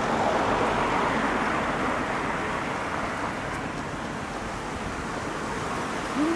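Steady outdoor background noise of a busy seafront walk, a blend of wind and distant crowd and traffic noise with no distinct events. A brief voice-like sound comes near the end.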